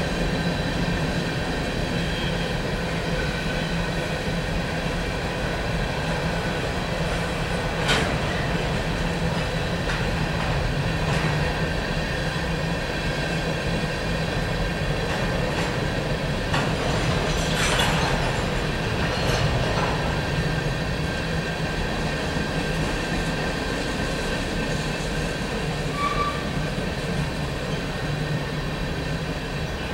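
Covered hopper cars of a cement freight train rolling past, a steady rumble of wheels on rail. A sharp knock comes about eight seconds in, and a louder, longer one around eighteen seconds.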